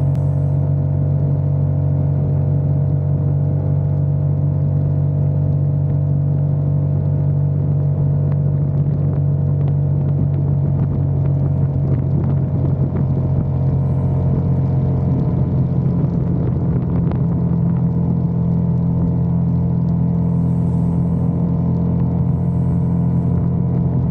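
Motorcycle engine running at a fairly steady speed while riding, heard as a continuous low engine drone with a slight change in pitch about two-thirds of the way through.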